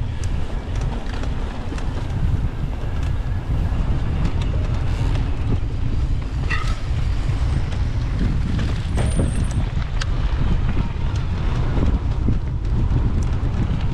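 Wind buffeting the microphone of a mountain bike rider on a trail, a steady low rumble, with tyre noise and scattered short clicks and rattles from the bike over rough ground.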